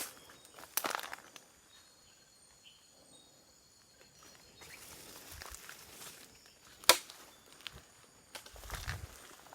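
Footsteps and rustling through undergrowth, with a few sharp clicks, the loudest about seven seconds in, over faint steady high-pitched tones.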